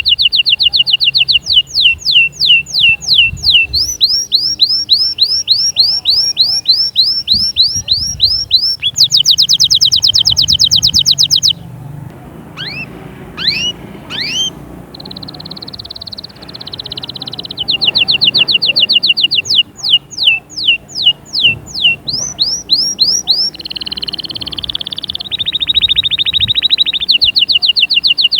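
Canary singing a long, loud song of rapid trilled phrases, each a run of quick downward-sweeping notes. About nine seconds in comes a very fast trill, then a short quieter lull with a few single rising notes before the trills resume.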